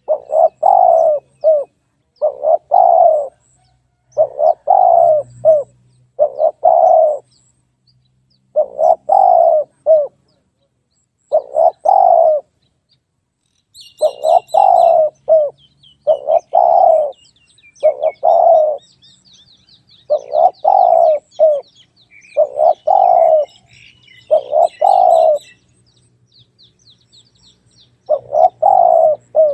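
Spotted dove (tekukur) cooing: loud phrases of a few short coos, repeated over and over with brief pauses between them. From about halfway through, faint high chirps of smaller birds sound behind the coos for some ten seconds.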